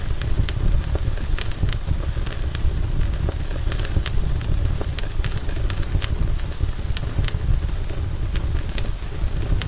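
Campfire burning: a steady low rumble under irregular sharp crackles and pops from the burning wood, one or two a second.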